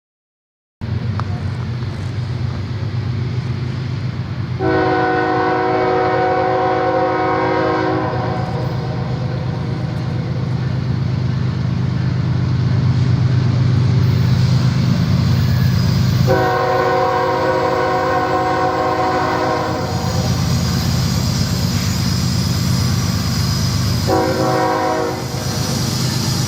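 A Norfolk Southern diesel locomotive rumbling as it runs and sounding its multi-chime air horn in two long blasts and then a short one, the start of the long-long-short-long grade-crossing signal.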